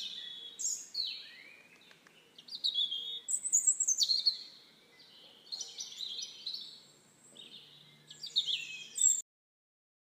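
Birds chirping and calling, with quick high chirps and trills in several overlapping phrases; the sound cuts off abruptly about nine seconds in.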